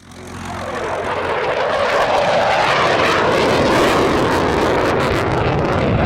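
Jet noise from a Eurofighter Typhoon's twin EJ200 turbofans, an even roar that rises from silence over the first two seconds and then holds steady.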